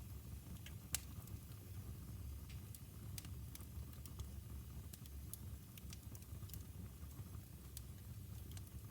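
Wood fire burning in a fireplace: a steady low rumble with scattered sharp crackles and pops, the loudest about a second in.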